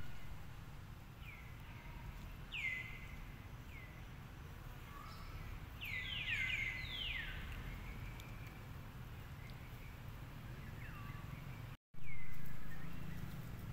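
Birds calling in the background: scattered short chirps that sweep down in pitch, with a cluster of several overlapping ones about six seconds in, over a steady low hum. The sound drops out briefly near the end, then resumes.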